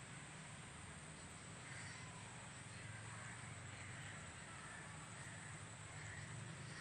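Faint bird calls repeating about once a second over a low steady hum.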